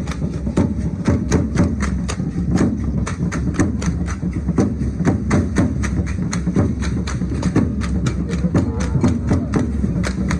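Rhythmic percussion for a traditional Mexican danza: sharp wooden clacks about three a second over steady low thumps.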